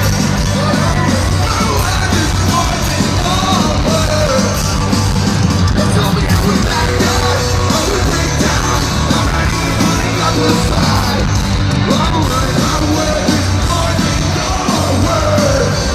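Loud rock music with yelled singing over a steady, heavy bass.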